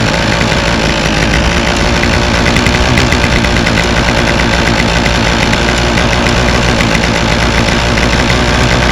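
2011 Toro 51936 string trimmer's 25cc two-stroke engine running steadily at idle, still cold and warming up just after starting.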